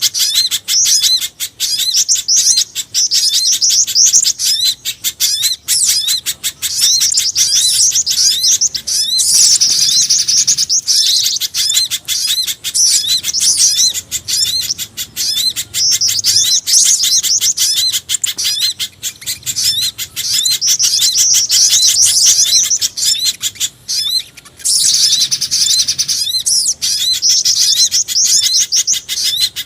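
Bird-lure recording of small songbird calls, mixing pijantung gunung (mountain spiderhunter), sogon and jingjing batu (flycatcher-shrike). Rapid, high chirps and trills run on without pause, densely layered.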